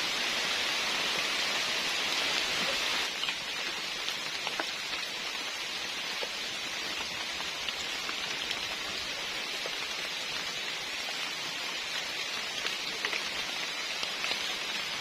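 Rain falling steadily, with scattered individual drop ticks; it becomes a little quieter about three seconds in.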